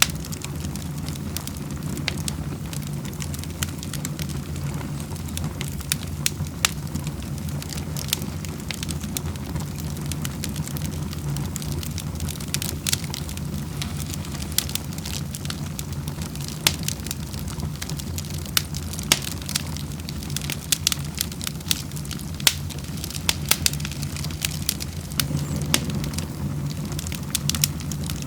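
Wood fire burning in a fireplace: a steady low rumble with frequent sharp crackles and pops, coming thicker in the second half.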